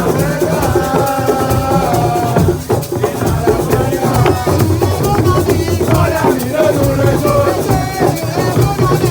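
Group of voices singing with drums and shakers playing a steady, lively beat.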